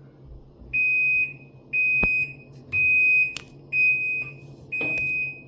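Living & Co 5.5 kg top-loading washing machine beeping at the end of its cycle: short, high, even beeps about once a second, the signal that the wash is finished before the machine shuts off. A few sharp clicks fall between the beeps.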